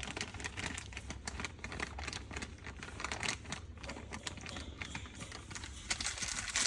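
Plaster and water being stirred by hand in a container to work out the lumps: an irregular run of scraping and clicking strokes.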